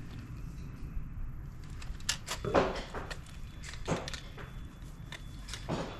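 A few sharp clicks and knocks of hand-tool work on the Tesla Wall Connector's wiring terminals, about four spread irregularly, the loudest about two and a half seconds in.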